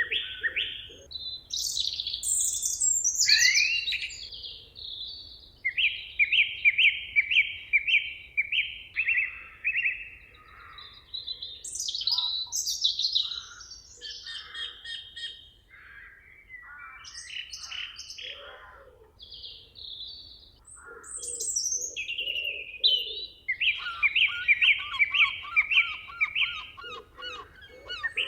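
Several wild birds singing together in a forest chorus. One phrase of fast, evenly repeated chirps comes back a few times, with other whistled and chirped calls between, and low repeated notes underneath near the end.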